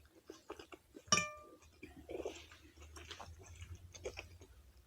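Soft, wet chewing and mouth sounds of someone eating, with one sharp clink against a dish about a second in that rings briefly.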